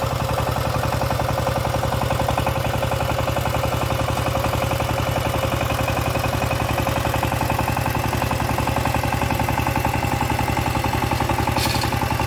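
Walking tractor's engine running steadily with a fast, even beat.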